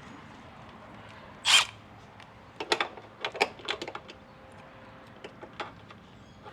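Hand tools working a fastener on the motorcycle exhaust: a short rasping scrape about a second and a half in, then a run of sharp metallic clicks and clinks, thinning out near the end.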